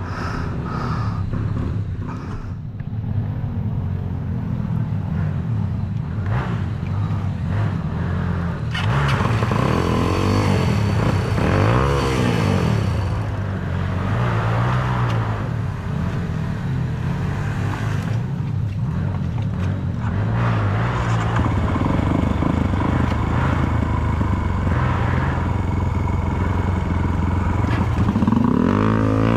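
Off-road dirt bike engine running and revving, its pitch rising and falling again and again as the bike is ridden.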